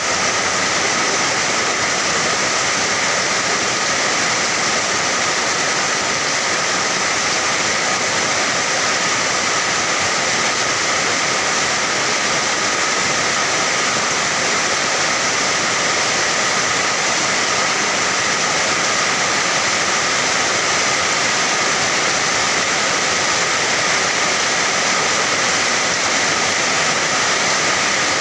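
Steady rain falling, an even, unbroken hiss that neither swells nor fades.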